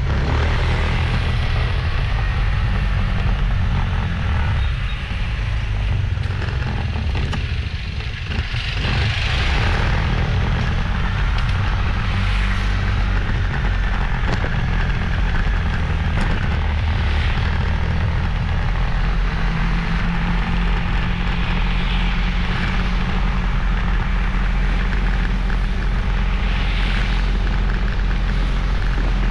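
Motorbike riding along the road, its engine running steadily under a heavy low rumble, with brief swells of other traffic every few seconds.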